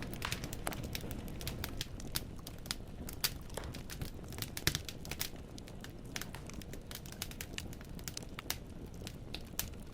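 Wood fire burning in a fireplace: irregular sharp crackles and pops of burning firewood over a low, steady rumble of flames.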